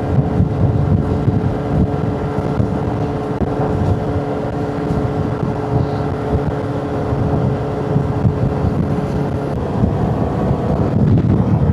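Motorcycle engine running at a steady cruising speed, with wind rushing over the microphone. The engine note holds steady and drops away near the end.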